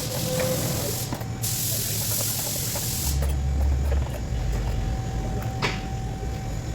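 Hissing spray in two spells, a short break about a second in, then cutting off sharply about three seconds in; a few light metallic clicks follow.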